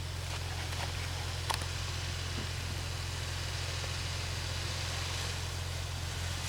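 Off-road 4x4 engine running with a steady low hum under an even hiss, and a single sharp click about a second and a half in.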